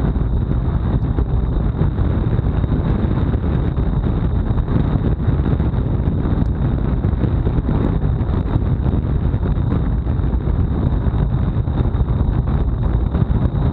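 Wind buffeting an action camera's microphone on a road bike ridden hard in a time trial, a loud, steady low rumble of rushing air, with a thin steady high-pitched tone above it.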